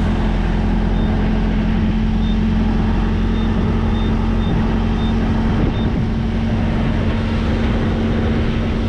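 Steady low drone of an idling semi-truck diesel engine, with faint short high beeps at irregular spacing from the fuel pump keypad as a code is punched in.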